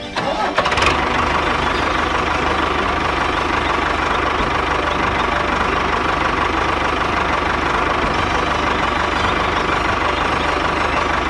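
Mini tractor's small engine running steadily with a fast, even chugging.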